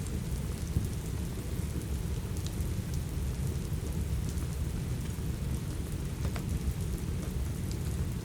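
Steady rain under a continuous low rumble, with a few sharp crackles and pops from a wood fire scattered through it.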